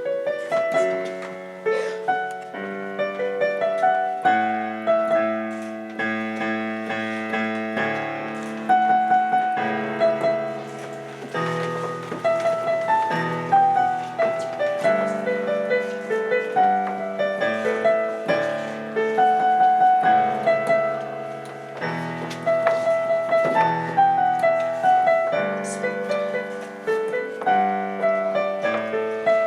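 Piano playing a slow, flowing melodic piece, with notes struck in a steady succession.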